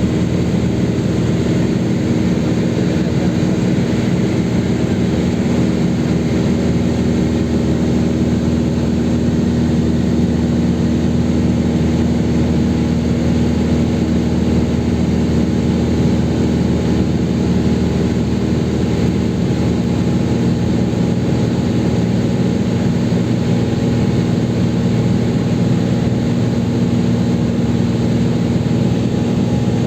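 Cessna 182's piston engine and propeller running in steady cruise, heard from inside the cabin. It is a loud, even drone with a fixed pitch that holds without change.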